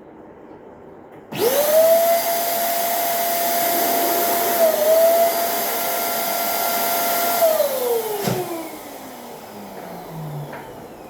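Electric balloon inflator switched on about a second in, its motor running with a steady whine, then switched off after about six seconds and winding down with a falling pitch. A single sharp click as it slows.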